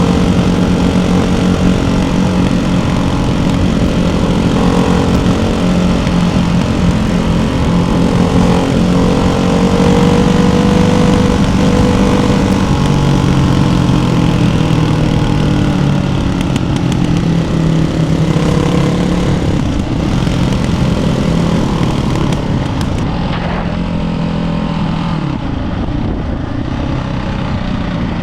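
Ducati Hypermotard 698 Mono's single-cylinder engine running through a Termignoni exhaust with the baffles fitted, under way at steady, moderate revs. Its note eases slightly lower about halfway through and stays there.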